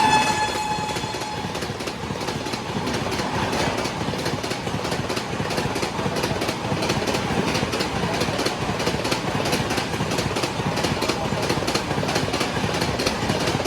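Express train running through a station at speed: a steady rush of passing coaches with rapid wheel clicks over the rail joints. The tail of its horn drops slightly in pitch and fades out right at the start.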